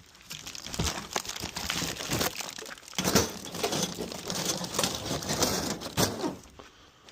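Rummaging through a box of junk: plastic and paper crinkling and rustling, with scattered knocks and clatters of items being handled. It starts just after the beginning and stops shortly before the end.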